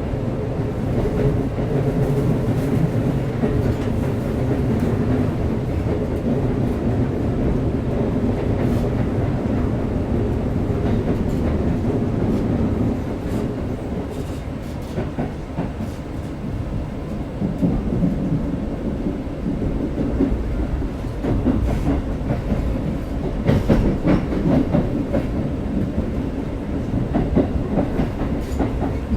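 Interior running sound of a Keikyu 1000 series motor car with Siemens VVVF propulsion: a steady low hum with some held tones in the first half, and wheels clicking over rail joints.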